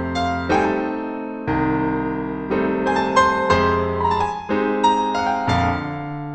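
Piano music: notes and chords struck every half second or so and left to ring.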